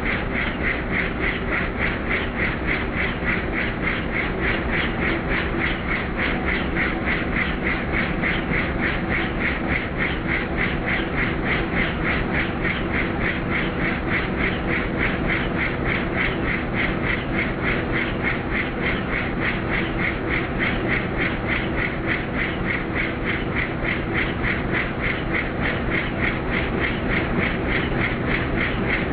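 Helicopter in flight: fast, steady rotor blade chop over a constant engine and transmission drone.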